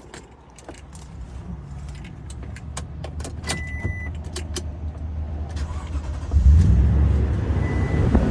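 Toyota Tundra's V8 engine running on a cold start: a low rumble that builds and becomes much louder about six seconds in, with a few light clicks and jingles.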